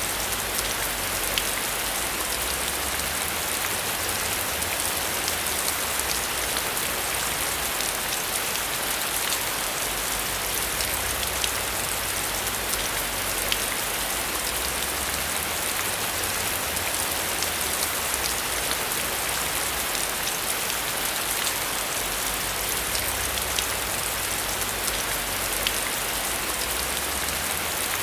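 Heavy rain falling steadily, a dense even hiss dotted with the ticks of individual drops striking a surface.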